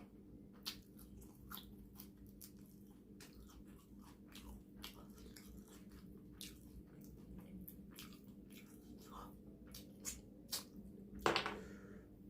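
Close-miked eating: a person chewing food with irregular wet mouth clicks and smacks, and one louder brief noise about 11 seconds in.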